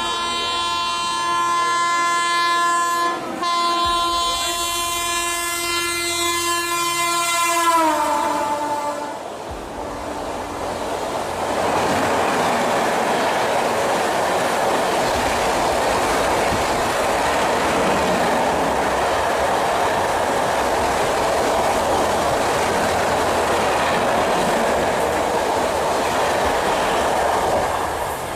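Mumbai Rajdhani Express sounding a long locomotive horn while approaching at high speed. The horn drops sharply in pitch about eight seconds in as the locomotive passes. A steady rush and clatter of coaches going by follows.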